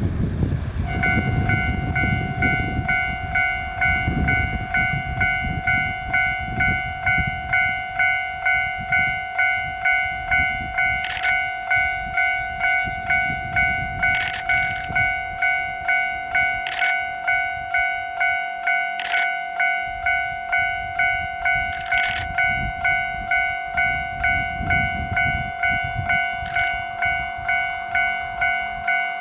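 Japanese railway level-crossing warning bell ringing, an even electronic ding repeating about one and a half times a second, which means the crossing is closed for an approaching train. A low rumble sits underneath, strongest in the first few seconds, with a few sharp clicks.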